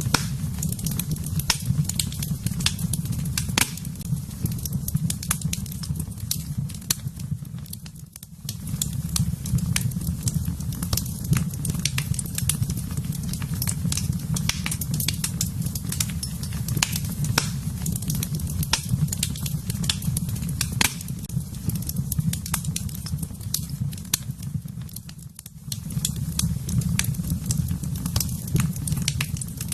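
Wood fire burning in a fireplace: a steady low rumble of flames with frequent sharp crackles and pops. The sound dips briefly twice.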